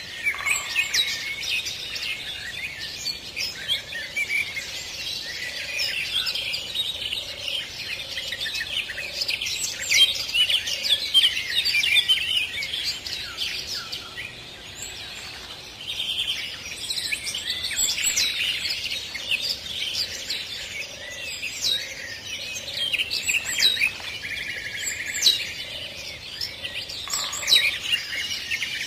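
Many birds chirping and singing together in a dense, continuous chorus of short high chirps and trills. A lower call repeats at an even pace through the middle.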